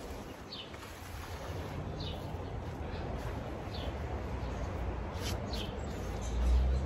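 A bird chirping short, falling notes every second or two, over a low rumble that grows louder near the end.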